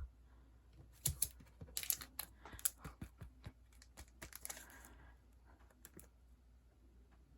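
Sticker sheets and their plastic packaging being handled: crinkling and a quick run of small clicks and taps, busiest between about one and five seconds in, with a knock at the very start.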